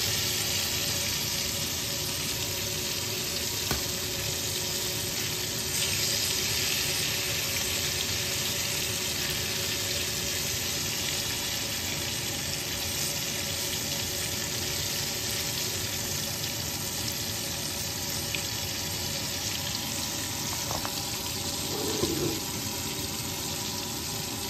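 Battered chicken pieces frying in hot oil in a stainless steel pan: a steady sizzle.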